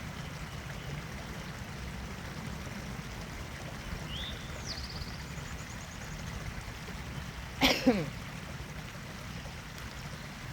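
Steady trickling water throughout, with a short bird chirp and trill about four seconds in. A little before eight seconds a man clears his throat loudly.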